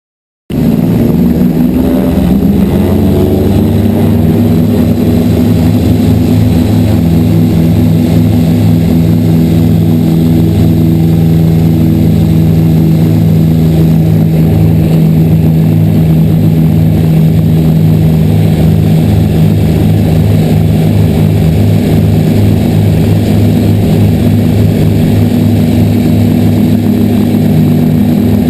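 Twin piston engines of a Grumman G-44 Widgeon seaplane running loud and steady at takeoff power. Their pitch rises a little over the first few seconds, then holds level.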